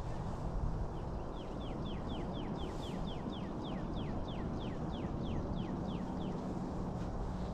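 A bird calling a fast series of about twenty short whistled notes, each falling in pitch, about four a second, over steady low background noise.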